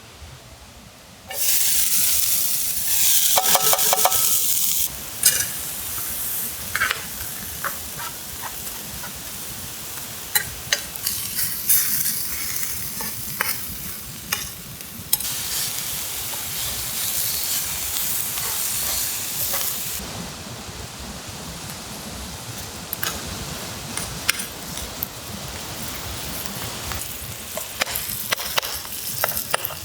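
Food sizzling loudly in a hot pan, starting suddenly about a second in as the food goes in, with a utensil stirring and clicking against the pan throughout.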